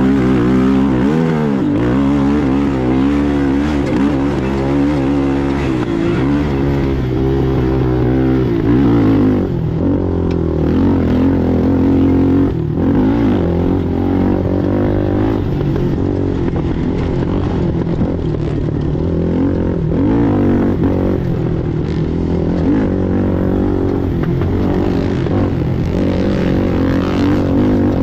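Racing ATV engine running hard, its pitch rising and falling with the throttle as it revs up and backs off over and over.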